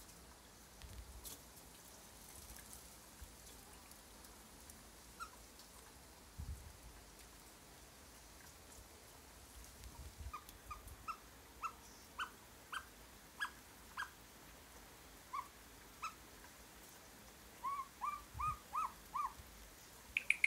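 Another pet bird whistling in short, squeaky notes, about one every half second from about halfway through, bunching into a quicker run of five or six near the end. A faint steady hiss of rain lies underneath.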